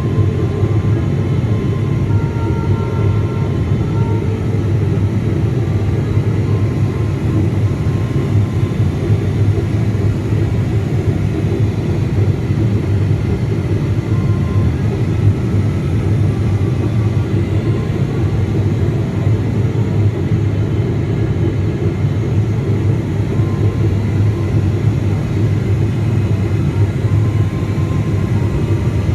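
Steady low rumble of a Boeing 777-300ER's GE90 jet engines and rushing air, heard inside the cabin in flight, with a faint steady high whine.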